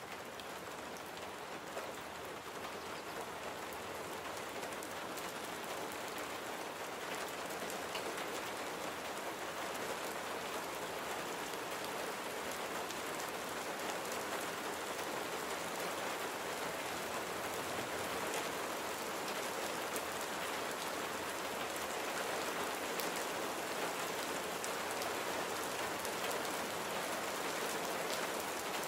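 Steady rain falling, an even hiss scattered with sharp individual drop hits. It grows slowly louder over the first several seconds, then holds steady.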